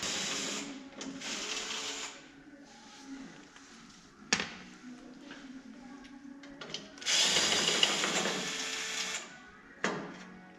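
A cordless drill-driver runs in two bursts of about two seconds each, backing out the screws of a headlight retaining ring. Two sharp clicks fall between and after the bursts.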